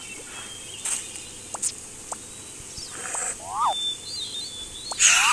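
Bird chirps and whistles over an outdoor background, with a few short harsh calls, the loudest near the end.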